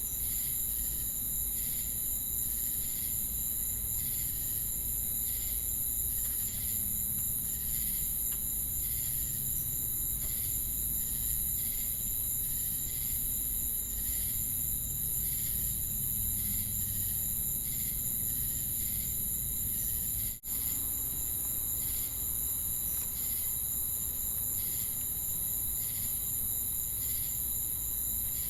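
Chorus of crickets and cicadas: a continuous high-pitched buzzing trill with a slower, regular pulsing chirp repeating over it. The sound drops out for an instant about two-thirds of the way through.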